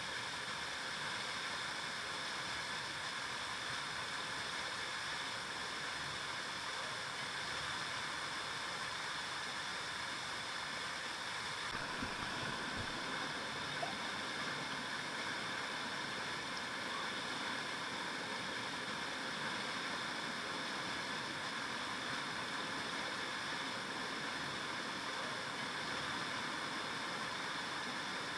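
River water flowing steadily over rocks, an even rushing with some gurgling.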